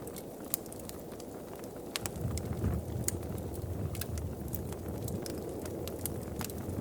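Wood fire crackling in a fireplace: irregular sharp pops and snaps, several loud ones, over a steady low rumble of the flames.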